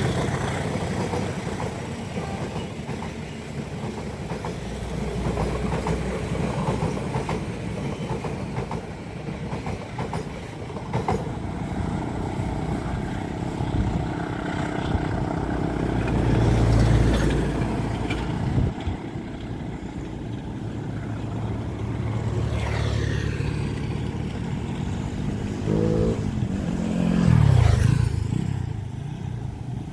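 Train running past on the line, a continuous rail rumble with the steady drone of a locomotive. Near the end a tone falls in pitch as it passes, at the loudest moment.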